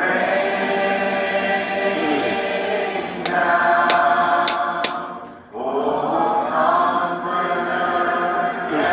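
Unaccompanied voices singing sustained chords in close harmony, a cappella, with a few sharp 's' sounds in the middle and a brief breath break about five and a half seconds in.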